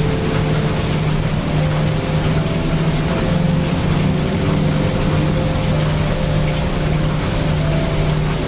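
A steady, unbroken mix of heavy rain and brown noise with a deep rumble, under a few soft sustained musical tones.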